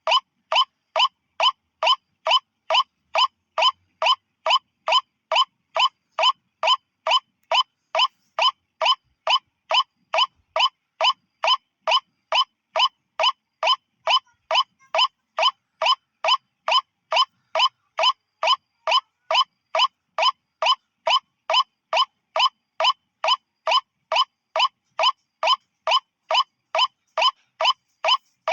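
White-breasted waterhen (ruak-ruak) lure call: one short, ringing note repeated at an even two per second with no break, the machine-steady rhythm of a looped lure recording.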